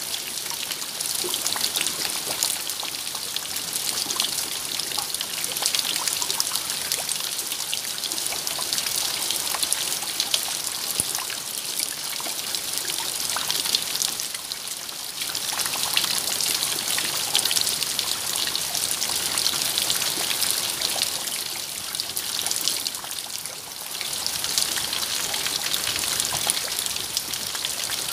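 Steady rain: a dense patter of many small drops with trickling water.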